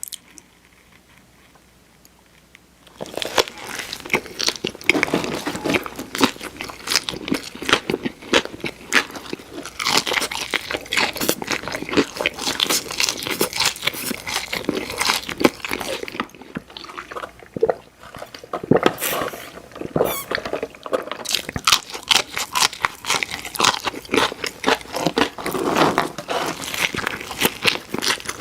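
Biting and chewing crispy fried food, with dense, irregular crunching that starts about three seconds in after a quiet opening.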